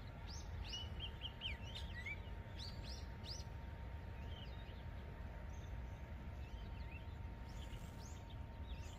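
Small birds chirping with short, quick calls in two bunches, one in the first few seconds and another near the end, over a steady low rumble of outdoor background noise and a faint steady hum.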